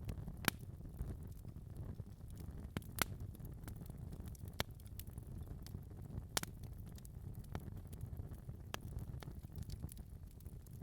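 Wood fire burning in a fireplace: a steady low rumble of the flames with scattered sharp crackles and pops, the loudest about half a second and three seconds in.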